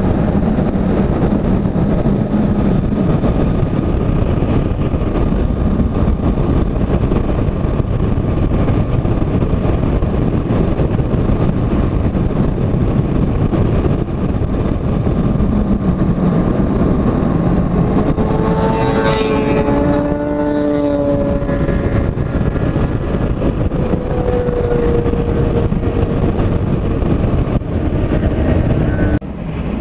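Motorcycle riding at highway speed, heard on board: steady wind rush over the engine's drone. About two-thirds of the way through, a passing vehicle briefly adds a pitched tone that falls slightly.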